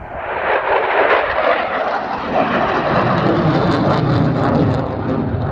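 Airplane making a loud low pass at an air show: its engine noise comes up suddenly and then drops in pitch as it goes by.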